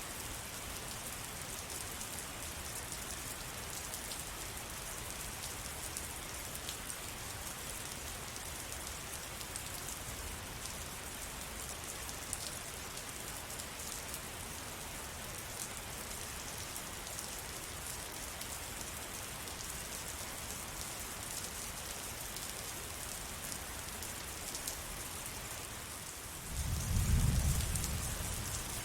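Steady rain falling, an even hiss with many small drop ticks. Near the end a brief low rumble rises and fades over about two seconds.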